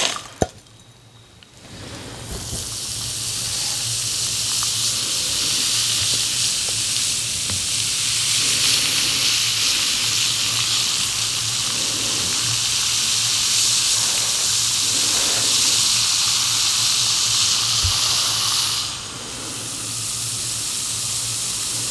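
Chunks of bath bomb fizzing in water: a dense, steady hiss that starts about two seconds in and eases slightly near the end. A few small clicks come right at the start.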